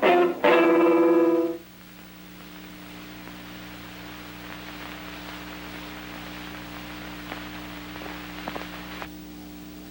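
A guitar chord rings out and ends about a second and a half in. After that there is only a steady low hum and hiss, with a few faint clicks near the end.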